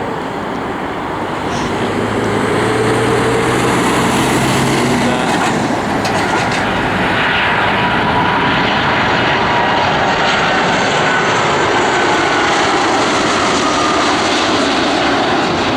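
Airliner's engines running as the aircraft passes close by: a loud steady rush that swells over the first couple of seconds, with faint whining tones gliding slowly in pitch.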